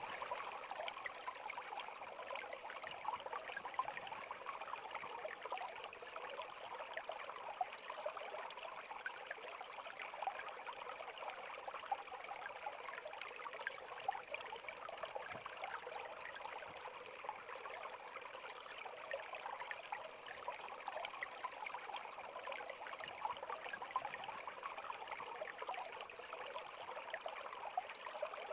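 River water running over rocks: a steady, even rush of flowing water with many small splashes and gurgles.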